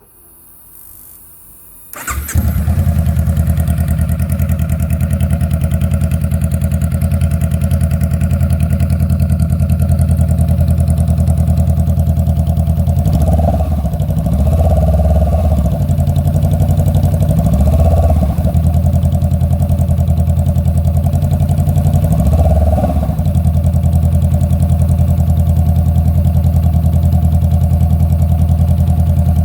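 A Honda CBR500's parallel-twin engine, run with no muffler, is cranked by the starter for about two seconds and then catches, loud and sudden. It then idles steadily on the open exhaust, revved up and back down briefly a few times partway through.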